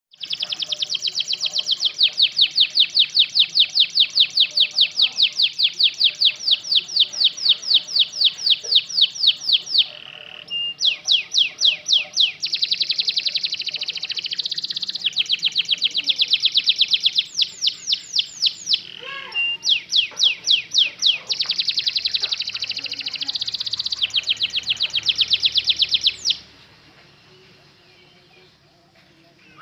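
Domestic canary singing long rolls: trills of rapid, evenly repeated high notes held for several seconds at a stretch, with short breaks between phrases, ending a few seconds before the end.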